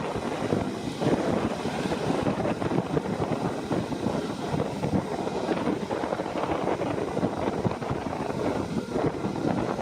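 Passenger train running along the track: a steady, dense rumble of wheels on rails, full of small irregular knocks.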